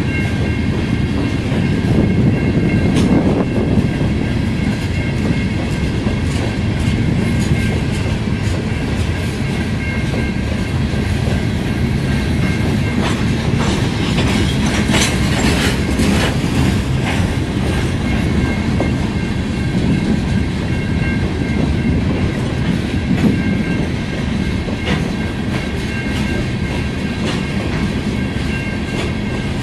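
Freight cars of a long unit hopper train rolling past in a steady low rumble, with wheels clicking over the rails. Faint steady high ringing tones sit over the rumble.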